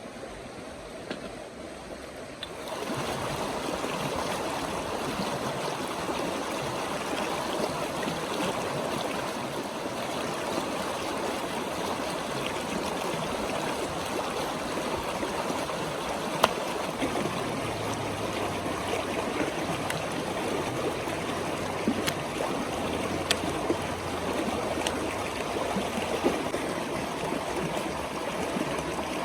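River water flowing steadily, a continuous rushing that grows louder about three seconds in. A few sharp clicks sound over it in the second half.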